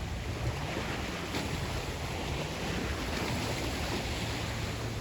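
Wind blowing across the microphone: a steady rushing noise with a low rumble.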